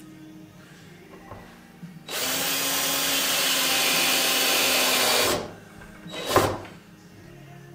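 Electric drill-driver running steadily for about three seconds, starting about two seconds in and stopping a little after five seconds, then a short sharp knock about six seconds in.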